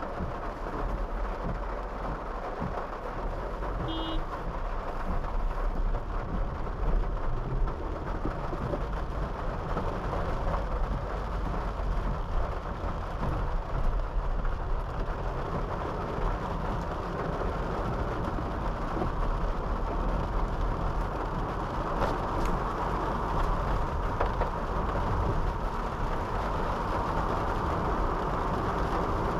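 Honda City sedan driving in the rain: steady road and tyre noise with rain on the car and a low rumble throughout. A brief high chirp about four seconds in.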